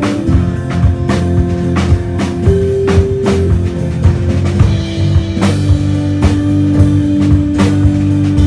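Live rock band playing an instrumental passage: drum kit keeping a steady beat of about two hits a second under sustained guitar notes and bass.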